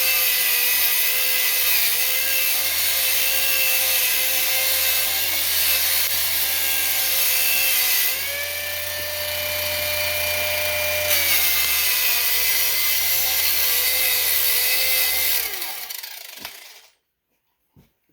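Grinder fitted with a cone brush running, scrubbing flux off an aluminum weld bead: a steady motor whine under a harsh brushing hiss. Its pitch rises for a few seconds midway as the load eases. It is switched off and spins down near the end, followed by a couple of light knocks.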